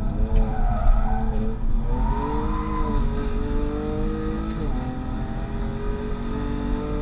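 BMW M3 F80's twin-turbo straight-six, with catless downpipes and an M Performance exhaust, pulls hard under acceleration, heard from inside the cabin. The engine note climbs, drops sharply with an upshift about five seconds in, and climbs again. Street tyres squeal through the corner in the first couple of seconds.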